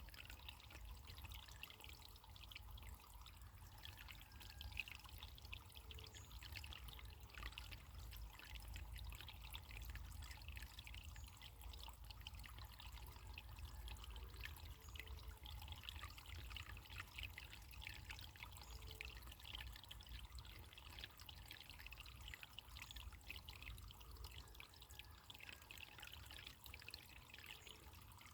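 Running water trickling and splashing steadily and faintly, as in a small stream, over a steady low rumble.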